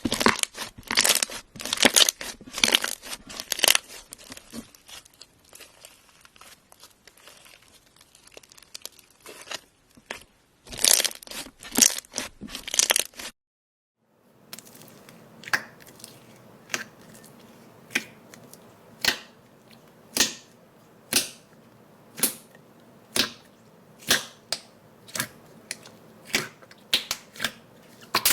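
Slime being squeezed and pressed by hand, giving dense crunchy crackling in clusters. After a brief cut it turns to a run of sharp single pops and snaps, about one a second, coming faster toward the end.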